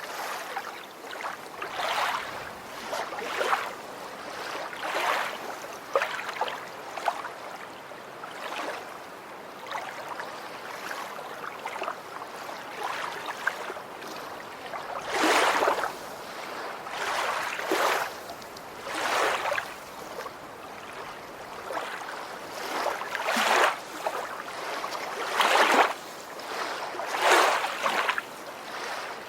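Water sloshing and washing in irregular swells every second or two, like small waves lapping.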